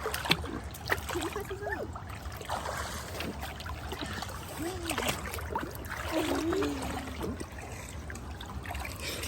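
River water running and trickling over rocks in a steady wash, with a few faint voices calling now and then.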